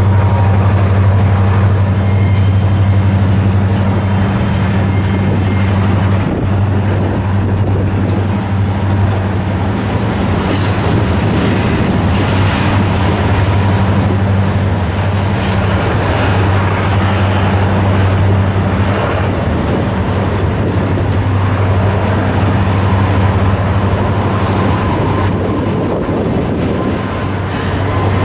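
Freight train's autorack cars rolling past close by, steel wheels running on the rails with a continuous rumble and a steady low hum underneath.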